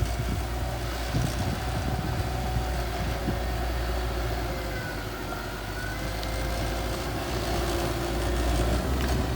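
Small bulldozer's diesel engine running steadily, with a faint whine that dips and rises about halfway through.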